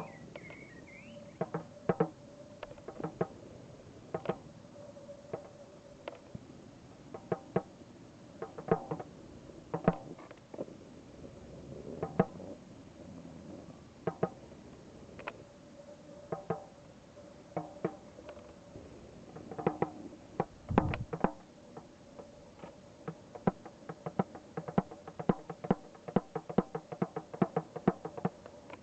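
A drum struck in a loose, uneven beat, each hit leaving a ringing tone that carries between strikes; the hits come faster near the end.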